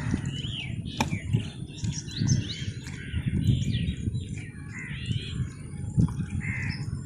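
Small birds chirping and calling repeatedly over low rustling and handling noise. Sharp clicks come about a second in and again near the end.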